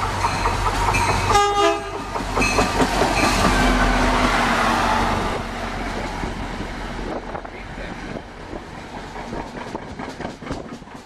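An NJ Transit diesel locomotive's air horn sounds one short blast about a second in, over the loud rumble of the approaching train. Then a passenger train rolls past with its wheels clicking rhythmically over rail joints, growing quieter toward the end.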